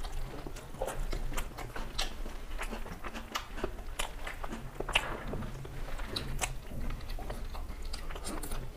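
Two people eating rice and chicken curry by hand and chewing, with many short, irregular mouth clicks.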